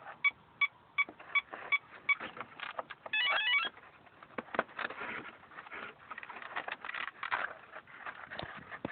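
Short electronic beeps, about two or three a second, then a quick rising run of beep tones a little after three seconds in, followed by irregular rustling and crackling handling noise.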